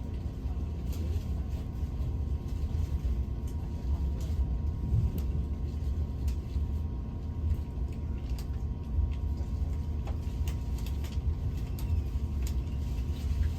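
Passenger train heard from inside the cabin while under way: a steady low rumble from the running gear, with scattered faint clicks and rattles.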